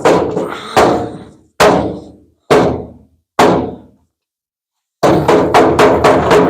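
Hammer blows on a dented sheet-steel body panel of a 1950 Ford F1 being straightened, the metal ringing after each hit. Five blows come about a second apart, then after a short pause a quick run of about four blows a second.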